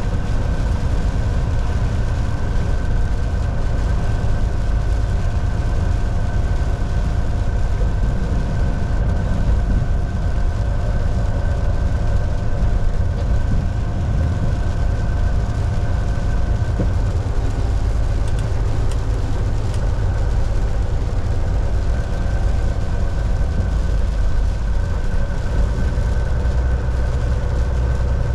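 Volvo VNL 760 semi truck heard from inside the cab: a steady low engine drone and road noise, with a few faint steady whining tones above it.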